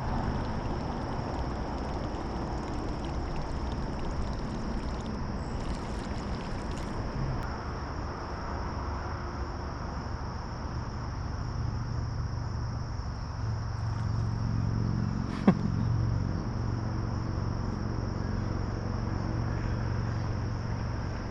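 Steady low rumble of distant road traffic that swells for a few seconds past the middle, over a continuous high chirring of insects. A single sharp tap about fifteen seconds in.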